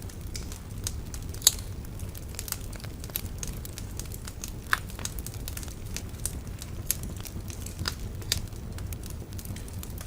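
Wood bonfire crackling steadily over a low rumble of flame, with irregular sharp pops and snaps; the loudest pops come about one and a half seconds in and again just under five seconds in.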